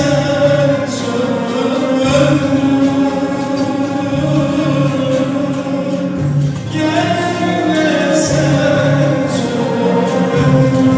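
Turkish classical music in makam Kürdilihicazkâr: an instrumental ensemble playing long held melodic lines with a voice singing over it.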